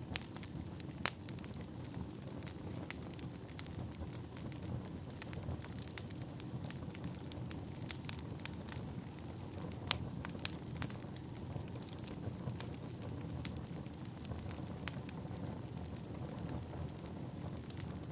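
Firewood burning in a fire: irregular sharp crackles and pops over a steady low rumble of the flames, with louder pops about a second in and near ten seconds.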